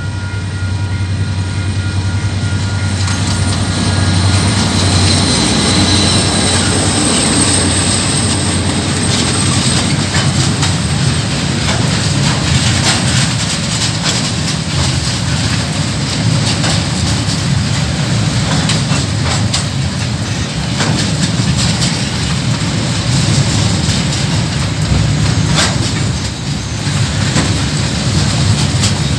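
Diesel-hauled KiwiRail coal train passing close by: the locomotive's low engine drone for the first few seconds, then a long string of coal wagons rumbling past with wheels clacking over the rail joints.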